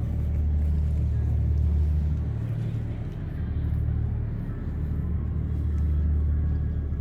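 Steady low engine rumble and drone inside a moving vehicle.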